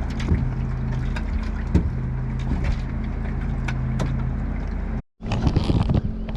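Boat engine running steadily under way, with wind and water noise and a few knocks. About five seconds in the sound cuts out for a moment and comes back noisier, with more splash and hiss.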